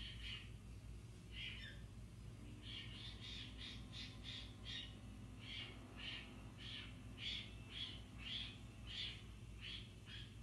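Repeated short, harsh bird squawks, about two a second, over a steady low electrical hum.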